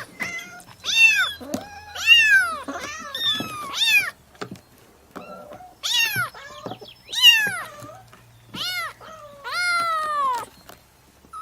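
Domestic cat meowing over and over: about a dozen separate meows, each rising and then falling in pitch, with short pauses between them and a longer drawn-out meow near the end.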